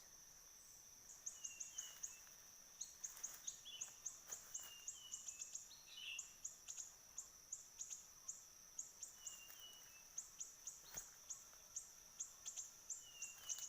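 Small birds chirping: short downward-sliding notes in twos and threes, at intervals, over a steady high-pitched whine studded with quick ticks.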